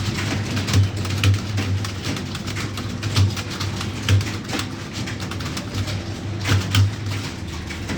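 Computer keyboard typed on fast and steadily, a rapid irregular patter of key clicks over a steady low hum.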